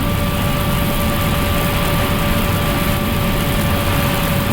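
Airbus A380 flight deck noise on final approach: a steady rush of airflow and engine sound with a thin, steady whine running through it.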